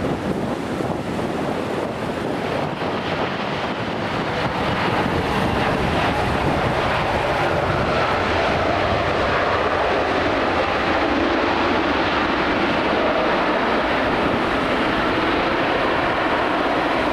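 Jet airliner engines heard at an airport, the noise swelling about four seconds in and then holding steady and loud, with wind buffeting the microphone.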